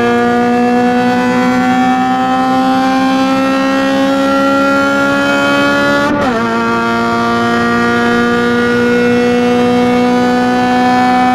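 Honda K20 2.0-litre four-cylinder engine pulling hard under load, its note climbing slowly in pitch, dropping sharply with an upshift about six seconds in, then climbing again in the next gear.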